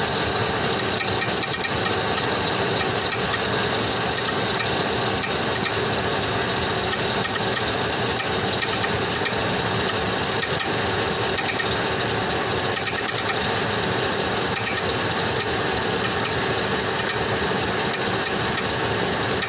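2005 Chevrolet Tahoe's V8 engine running steadily, with the weird noise from underneath the truck that the owner has not identified, small clicks heard over the engine.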